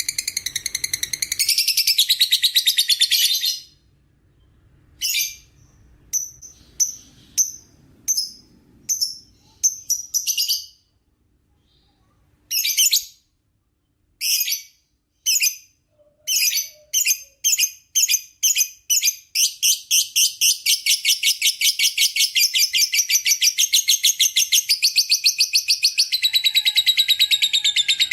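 Lovebird giving its long chattering trill ('ngekek panjang'): a fast, high-pitched run of calls breaks off after a few seconds into scattered short chirps, then quickens through separate bursts into one long, continuous trill.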